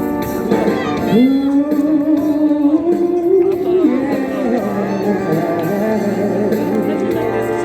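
A song with backing music and a singer holding one long note that rises slightly, then drops about four seconds in, before going on with a moving melody line.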